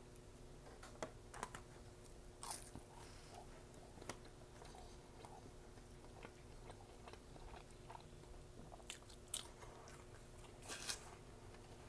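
Close-miked eating of McDonald's food: quiet chewing with scattered crunches and wet mouth clicks, a few louder crunches near the end.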